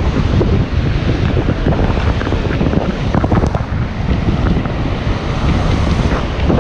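Wind buffeting the microphone on a moving harbor tour boat, over the boat's engine and rushing water.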